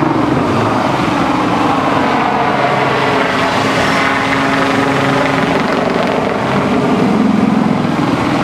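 Helicopter flying overhead, a steady loud mix of rotor noise and engine whine.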